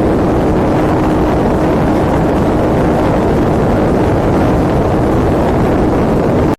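Small folding USB desk fan running on a high setting, its airflow rushing loudly against the microphone, with a faint steady motor hum underneath. The sound cuts off abruptly at the end.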